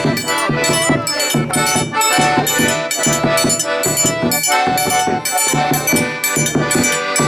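Live forró pé-de-serra played without singing: sustained melodic tones over a steady drum beat with bright rhythmic percussion on top.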